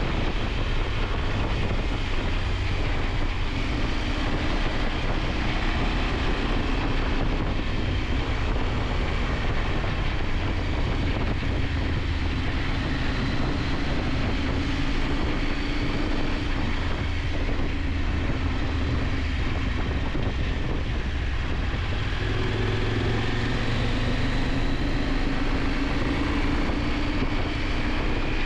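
KTM 890 Adventure's parallel-twin engine running on the move, its pitch drifting up and down with the throttle, under steady wind noise on the microphone.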